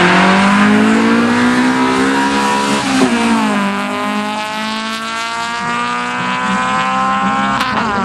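Tuned car's engine revving hard as it launches and accelerates away on a sprint strip, with its tyres squealing briefly at the start. Its pitch climbs, drops at an upshift about three seconds in, climbs slowly again and drops at a second shift near the end.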